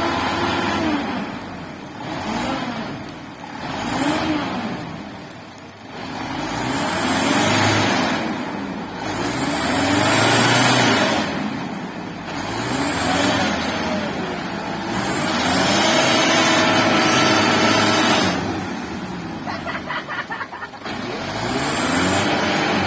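Mitsubishi Fuso Canter dump truck's engine revved up and let off again and again, about eight times, each rev rising and falling in pitch, as the driver tries to drive out with the drive wheels slipping.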